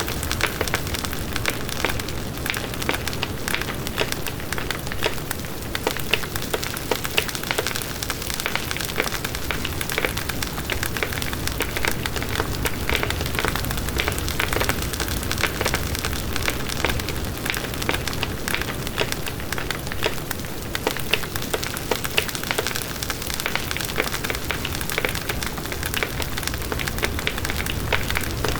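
Campfire burning steadily, with a dense, continuous crackle of small pops over a low rumble of flames.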